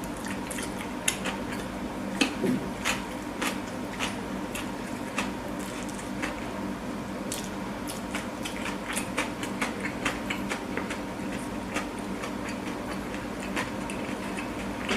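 Close-miked chewing of a burger: irregular wet mouth clicks and soft crunches, several a second, over a steady low hum.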